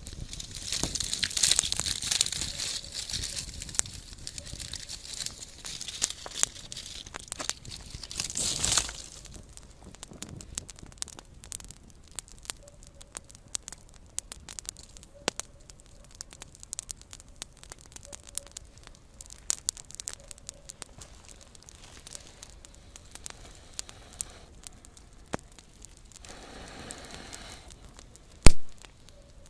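Small campfire crackling, with many sharp pops scattered throughout. A dense, hissing crackle fills the first nine seconds or so, and one loud pop comes near the end.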